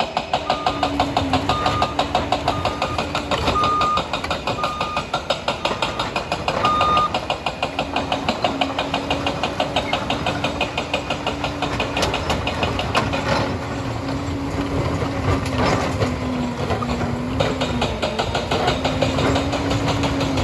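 Liebherr 746 crawler dozer's diesel engine running with a fast, even clatter from the machine. Its reversing alarm beeps about once a second for the first seven seconds while it backs up.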